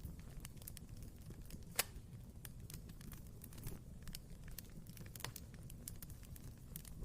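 Wood fire crackling in a fireplace: a low steady rumble of the flames with scattered sharp snaps and pops, the loudest about two seconds in.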